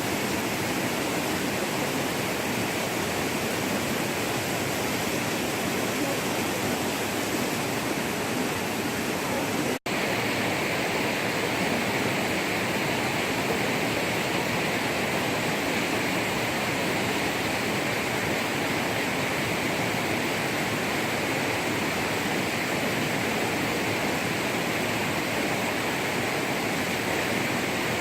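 Steady rushing water of a stream or river. About ten seconds in, the sound cuts out for an instant, then resumes slightly brighter.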